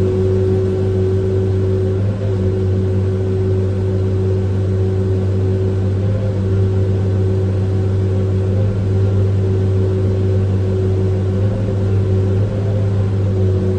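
An engine running steadily at constant speed, a low, even hum.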